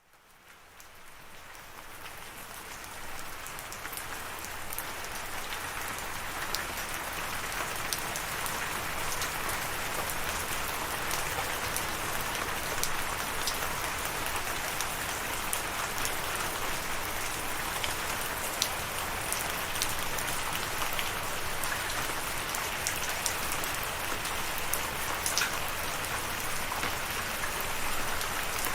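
Steady rain falling, with scattered sharp drops pattering on a surface, fading in over the first few seconds.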